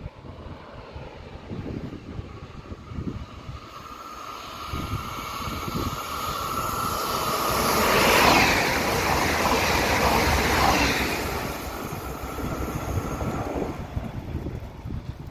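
A Regio 2N double-deck electric multiple unit passing through at speed. A steady whine is heard as it approaches, then the rush of wheels on rail and air swells to a peak in the middle and fades away. Wind buffets the microphone throughout.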